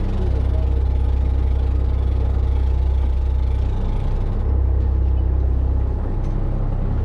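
Charter boat engine running steadily, a loud low drone.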